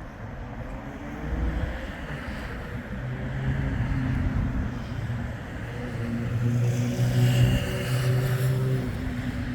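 Bombardier Flexity 2 tram running past, with a steady electric motor hum over rolling noise. It grows louder to a peak about seven to eight seconds in, then eases off.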